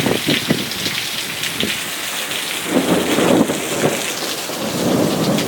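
Heavy thunderstorm rain pouring and splattering, with wind buffeting the phone's microphone. A stronger low rumble swells about three seconds in.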